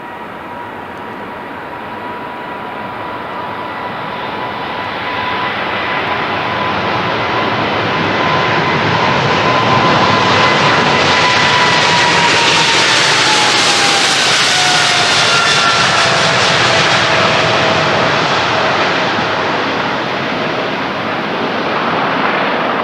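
Boeing 777's twin jet engines at takeoff power, a loud roar that builds as the airliner approaches and passes. A high whine over the roar drops in pitch as it goes by, then the roar eases.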